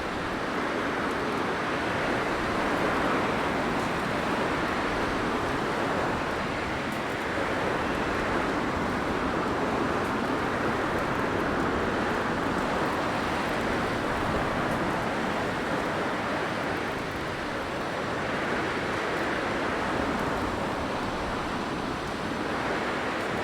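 Blizzard wind blowing steadily as a dense rushing noise, slowly swelling and easing over several seconds.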